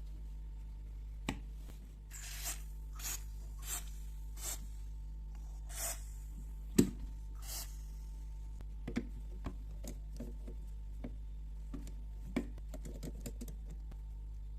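Hand work on an old carburetor: a run of about six short scraping strokes, a sharp knock in the middle, then light clicks and taps of small metal parts. A steady low electrical hum sits underneath.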